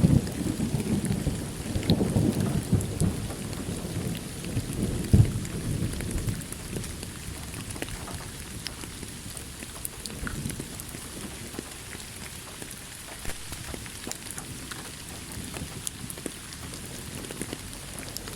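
Thunderstorm: a thunder rumble dies away over the first few seconds, with one sharper crack about five seconds in, leaving steady rain falling.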